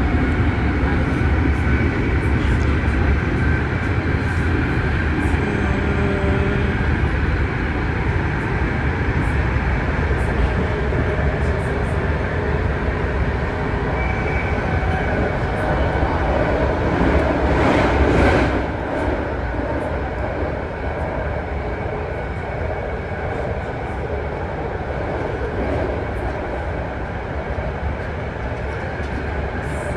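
BART rapid-transit train running between stations, heard from inside the car: a steady rumble and wheel-on-rail noise. A brief louder rush comes a little past halfway, and then the noise settles slightly lower.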